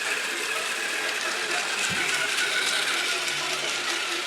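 Model train running on its track: a steady mechanical whir with fine, rapid clicking.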